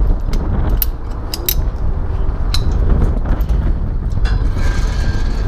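Strong wind buffeting the microphone in a steady low rumble, with a few sharp clicks in the first few seconds.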